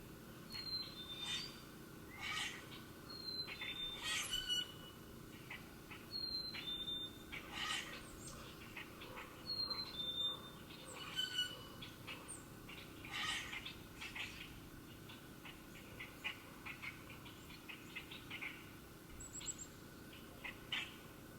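Wild songbirds calling: a clear two-note whistle, the second note lower, repeated every few seconds, mixed with many short chips and calls.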